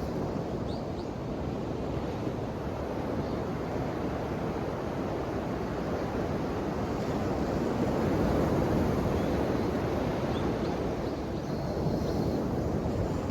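Ocean waves washing in, a steady rushing surf that swells louder about eight seconds in and again near the end.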